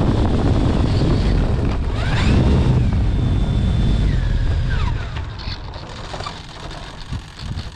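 Heavy wind buffeting on a GoPro microphone, a dense low rumble, with a few thin gliding whistles over it; the rumble drops away abruptly about five seconds in, leaving scattered low thumps.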